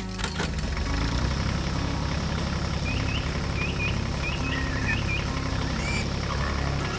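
Tractor engine running steadily with a low rumble, as a cartoon sound effect, with a run of short high chirps in the middle.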